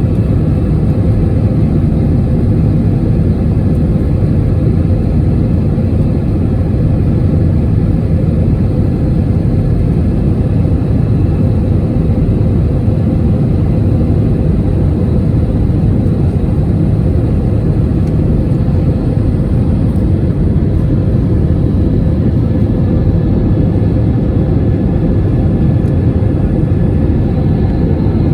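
Airbus A321 jet airliner in flight: a steady, loud roar of engines and airflow that stays even throughout, with a faint steady whine above it.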